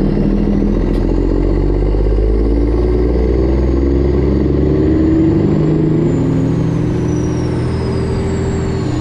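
Straight-piped Freightliner Classic XL's Detroit Diesel 12.7 engine running steadily as the truck rolls at low speed. A faint high whine falls in pitch over the last few seconds.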